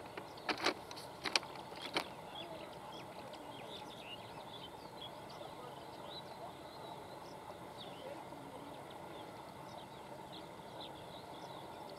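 Birds chirping over a low, steady background from an electric multiple unit local train pulling slowly out of a station, with a few sharp knocks in the first two seconds.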